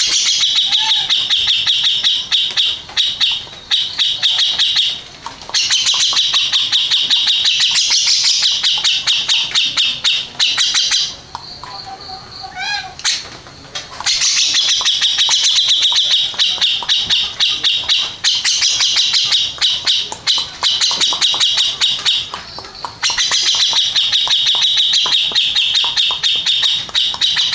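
Grey-cheeked bulbul (cucak jenggot) singing long, rapid chattering trills in loud phrases of several seconds each, broken by short pauses. In a longer pause about halfway through there are a few softer, separate notes.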